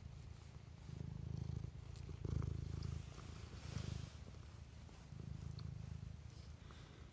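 Domestic cat purring close up, a low buzz that swells and drops away in roughly one-second bouts with each breath.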